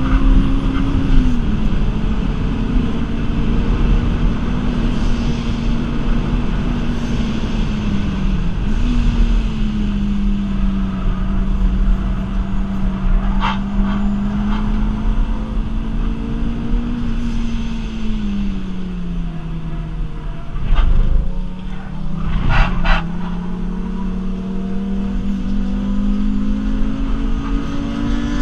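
Supercharged Toyota Celica's 2ZZ 1.8-litre four-cylinder engine heard from inside the cabin while lapping a circuit. Its note drops briefly early on, then holds fairly steady. It sags slowly off throttle about two-thirds of the way through, then climbs steadily again near the end. A few sharp knocks come through about halfway and again in the later part.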